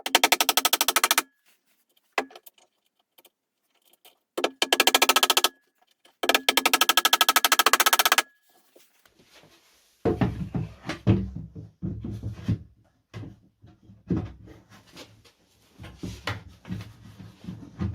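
A power tool run in three short bursts, each a rapid, even buzzing pulse lasting one to two seconds. In the second half, irregular wooden knocks and handling thuds follow.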